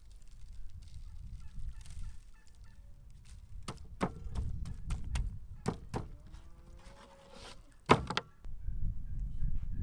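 Farmyard fowl calling in a few short, sharp bursts over a low rumble.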